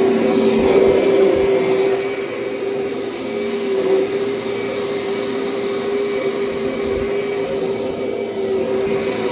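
Kirby upright vacuum cleaner running steadily over carpet, its motor and fan giving one even hum over the rush of air. It is a little louder during the first couple of seconds.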